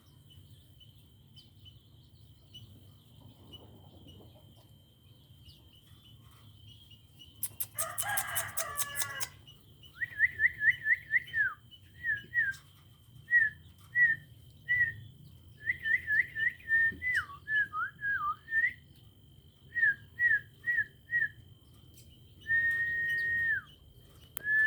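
Cage bird calling: a quick chattering rattle, then a string of short clear whistled notes, some sliding down in pitch, and one longer held whistle near the end.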